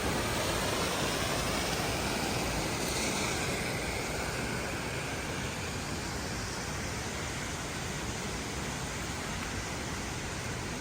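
Waterfall's rushing water: a steady, even roar.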